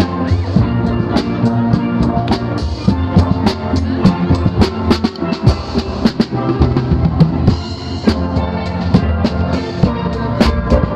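Steel pan band playing: steelpan melody and chords over a drum kit beat.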